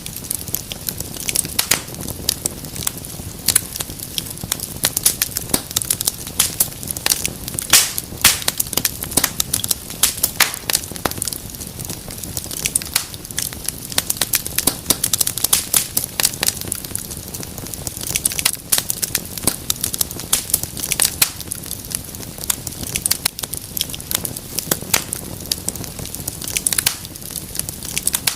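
Wood fire crackling in a fireplace: a steady low rumble with dense, irregular sharp pops and snaps.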